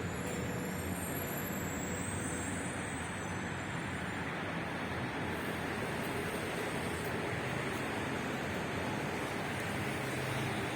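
Steady rushing rail-vehicle noise with no distinct knocks or horns. A faint, high trace of wheel squeal fades out in the first couple of seconds.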